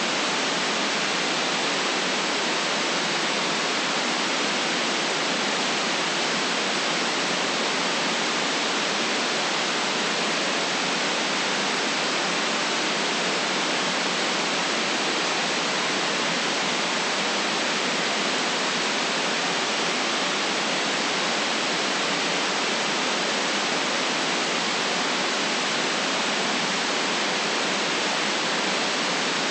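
Steady synthetic white noise, an even hiss that doesn't change, cut off below the low bass and above the high treble.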